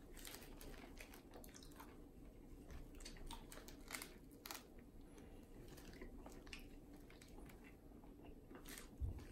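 Faint biting and chewing of a nori-wrapped sushi hand roll: scattered soft crunches and crackles from the seaweed sheet and rice, a little louder about four seconds in. A short low thump near the end.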